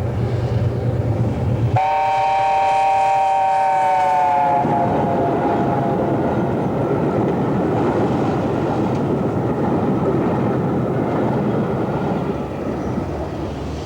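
An LNER A4 Pacific steam locomotive sounds its chime whistle, a three-note chord lasting about three seconds that dips slightly in pitch as it fades. This is followed by the steady noise of the engine and its train running past.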